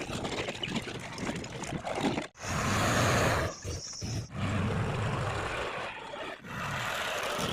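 Heavy diesel machinery running, heard in several short clips cut together with abrupt breaks.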